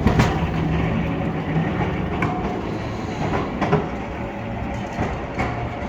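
Electric tram running on street rails, a low rumble and hum with sharp wheel clicks every second or so, slowly getting quieter.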